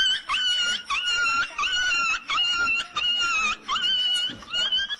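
An animal giving a string of about eight high-pitched, drawn-out whining cries, each rising at the start and then holding its pitch.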